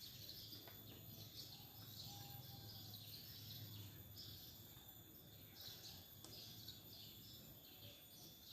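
Near silence: faint outdoor ambience with short, high chirps repeating every second or so over a low hum.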